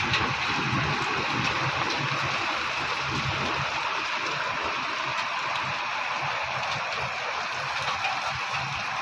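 Heavy rain falling in a steady, even hiss, with strong wind buffeting the microphone in irregular low rumbles.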